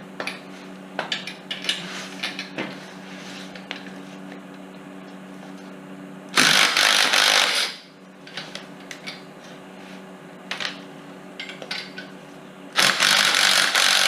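Impact gun hammering on the strut's top nut in two bursts, one of about a second and a half some six seconds in and another starting near the end, with metal clinks and clanks of the strut and tools between them.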